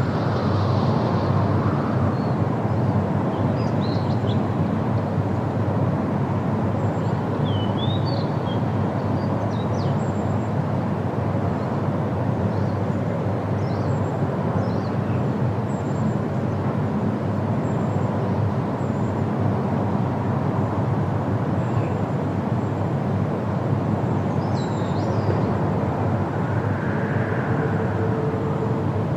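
Steady wind rushing through trees, with a few short, high bird chirps here and there.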